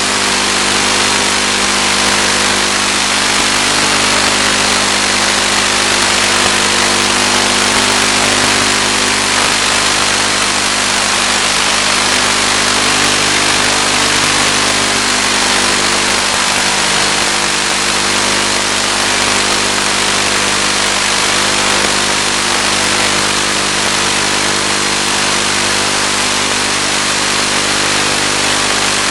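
Electric motor and propeller of an FPV model plane running at a steady throttle, a constant drone with heavy hiss, heard through the onboard video transmitter's audio channel.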